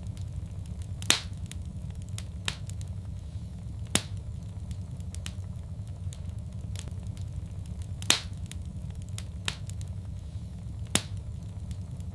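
Wood fire crackling in a fireplace: a steady low rumble of burning under scattered small crackles, with four louder sharp pops a few seconds apart.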